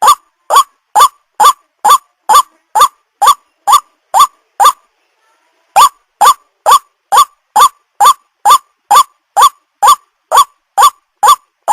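White-breasted waterhen (ruak-ruak) calling: short notes, each rising in pitch, repeated steadily about twice a second, with a pause of about a second midway.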